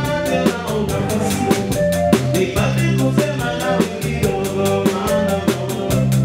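Live band playing upbeat dance music, the drum kit keeping a steady quick beat over a strong bass line and sustained keyboard-like chords.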